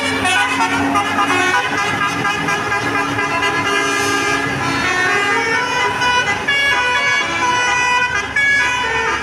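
Multi-tone bus horn (Indonesian 'telolet' horn) playing a tune: a run of held notes stepping up and down in pitch, each lasting about half a second to a second.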